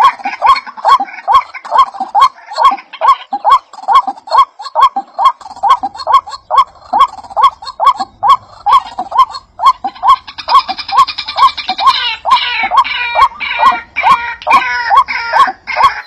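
A clucking bird call repeated at a very even pace, about two or three times a second, with higher twittering bird calls joining about ten seconds in.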